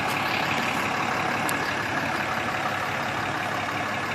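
2012 Dodge Ram 3500's Cummins 6.7-litre turbo-diesel inline-six running steadily at idle.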